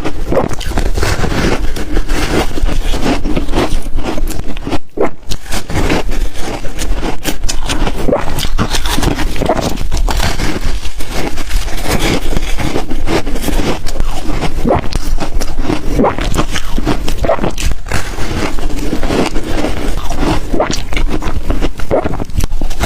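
Ice being bitten and chewed, a dense, unbroken run of crunches and crackles with a brief lull about five seconds in.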